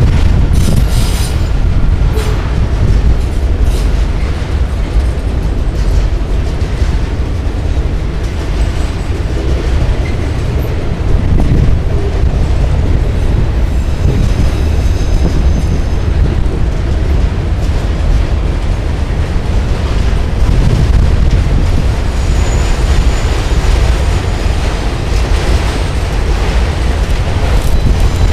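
CSX autorack freight train rolling past: a loud, steady rumble of the cars with repeated clicks of wheels over rail joints and, at times, a faint high wheel squeal.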